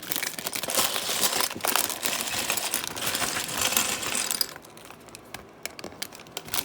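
Plastic bag of LEGO pieces being handled and opened, the small plastic pieces clattering together over the bag's crinkle. The clatter is dense for about four and a half seconds, then thins to a few scattered clicks.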